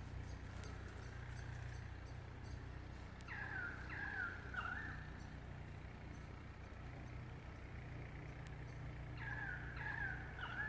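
A bird calls twice, each time a pair of short falling calls, a few seconds apart. Beneath them is a steady low rumble, with faint ticks of a small stick fire crackling.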